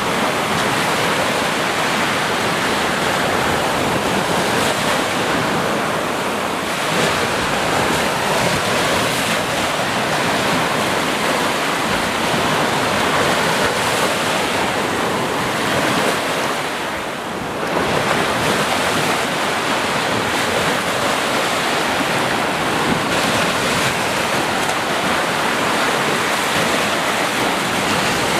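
Ocean surf, a steady wash of breaking waves, easing briefly about two-thirds of the way through before swelling again.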